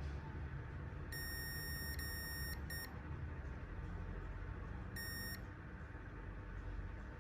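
High-pitched electronic beeps: two longer beeps back to back about a second in, a short blip right after, and one more beep about five seconds in, over a steady low hum.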